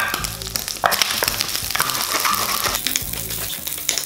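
Diced panceta sizzling in hot oil in a wok, with scattered clicks and scrapes from a wooden spatula stirring it.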